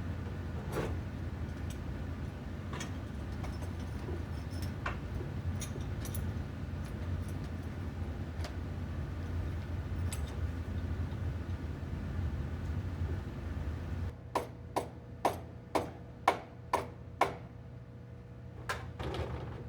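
Steady low hum for most of the stretch. It gives way abruptly to a run of about eight sharp taps, roughly two a second, with two more taps near the end.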